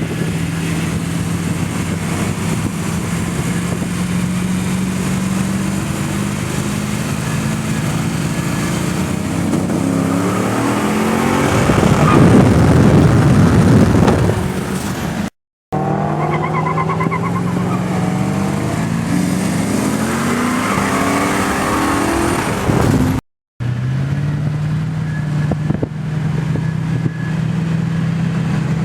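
Twin-turbo Ford BA XR8's V8 engine running at a steady low note, then revving up in a series of rising sweeps to its loudest about halfway through. After two abrupt cuts, it runs steady again and climbs once more.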